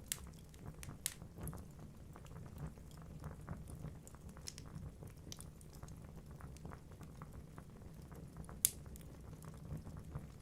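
Wood fire burning in a fireplace: a steady low rumble of flames with irregular crackles and snaps from the logs, and one sharp pop near the end.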